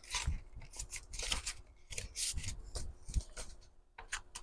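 Sheets of paper rustling and sliding against each other as folded signatures are handled and stacked, in a run of irregular short swishes.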